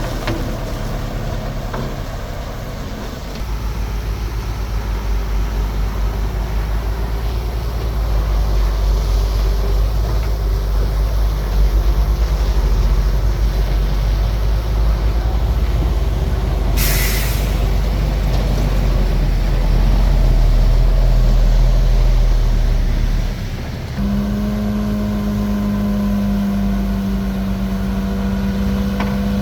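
Bulldozer's diesel engine working under heavy load, its deep rumble building through the middle, with a short burst of air hiss a little past halfway. Near the end the engine suddenly drops to a steadier, more even running note, as the load comes off.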